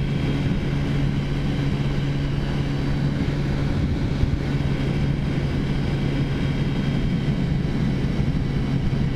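Taotao 50cc scooter engine with a big bore kit running at a steady cruising speed, holding one even pitch throughout.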